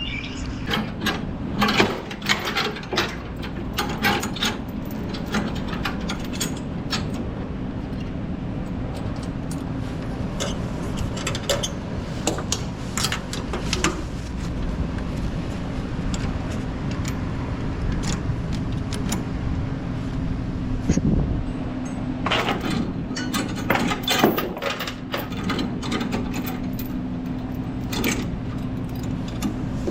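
Steel load chains clinking and a chain binder being worked while a flatbed load is secured: irregular clusters of clicks and clanks over a steady low hum.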